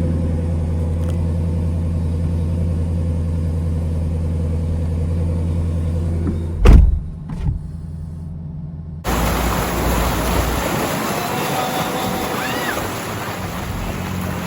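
Steady low drone of a car's engine heard as a running vehicle. About six and a half seconds in, a loud thump and a smaller knock break it. Then an abrupt change to busy outdoor noise with a few short whistles.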